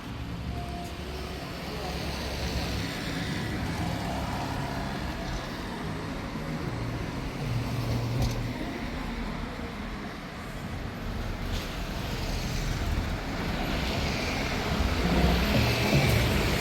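Street traffic: vehicle engines running and passing by, getting louder near the end.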